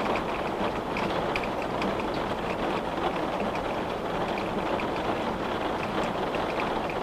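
Steady rain falling on and around a window, with a constant hiss and many small drop taps against the glass.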